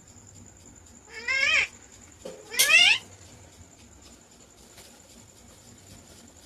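A pet parakeet mimicking a cat's meow twice, two short rising wails about a second apart, the second louder.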